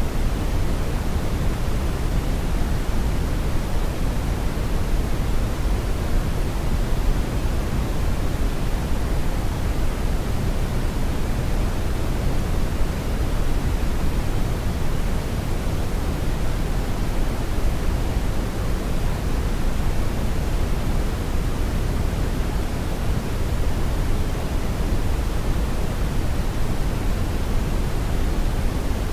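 Steady brown noise: a deep, even hiss that stays constant throughout, heaviest in the bass and fading toward the treble.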